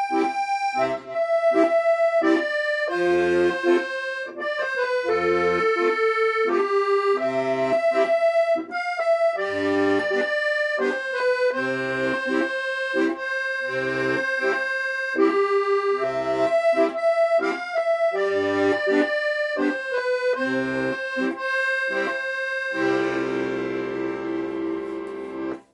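Accordion playing a melody over a pulsing bass-and-chord accompaniment, ending on a long held chord that cuts off.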